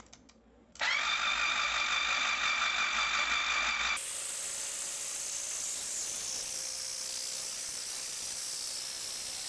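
Electric starter motor cranking the rebuilt 2024 Yamaha GP HO engine over without it firing, a steady whine, to pump oil up to the camshafts. It starts about a second in, and the sound changes abruptly about four seconds in.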